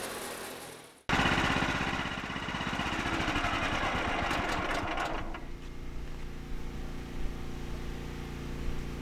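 Gas-engine portable band sawmill. The sound fades, then about a second in the engine and the blade cutting through the log start abruptly. The cutting noise stops about four seconds later and the engine keeps running steadily.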